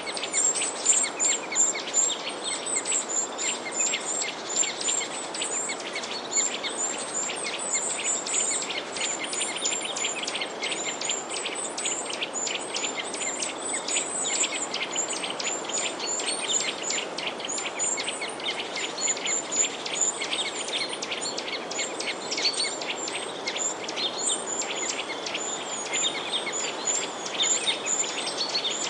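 A dense chorus of many birds chirping: rapid, overlapping short high chirps that never let up, over a steady background hiss.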